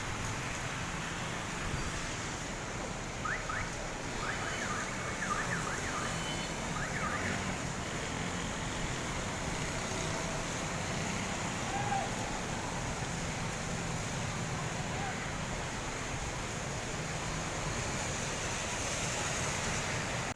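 Steady wash of rain and wind, with a few faint short high chirps a few seconds in.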